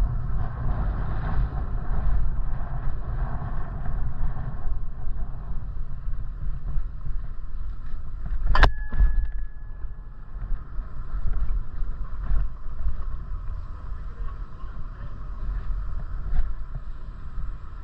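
Wind buffeting the microphone on a moving bicycle: a steady low rumble. About eight and a half seconds in there is a single sharp strike that rings on briefly in two clear tones.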